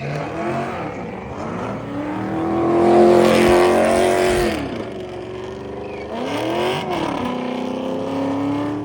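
Car engine revving hard: its pitch climbs and holds high for about two seconds with a loud hiss of tyre noise, then drops. A second, shorter rev rises and falls about seven seconds in.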